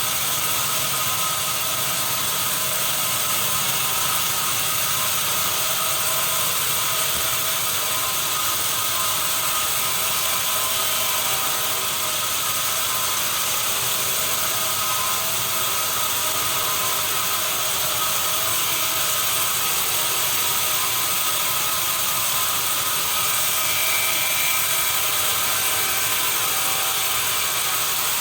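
Sawmill machinery running steadily: a loud, constant mechanical noise that does not pause or change.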